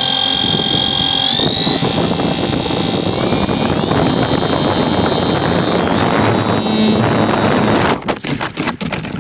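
RC model plane's motor and propeller whining in flight, heard from a recorder taped to the plane, the whine stepping up in pitch a few times over wind rushing past. About eight seconds in, a run of hard knocks as the plane strikes something and crashes, and the motor whine cuts off.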